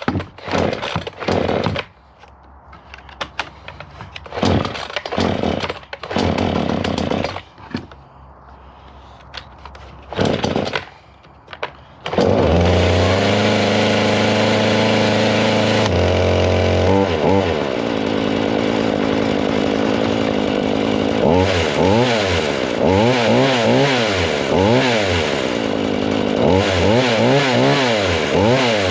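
Forest King 40cc two-stroke chainsaw on its first start with the choke pulled: short bursts of firing that die away again, then about twelve seconds in the engine catches and keeps running. From about twenty seconds the throttle is blipped so the engine revs up and drops back several times.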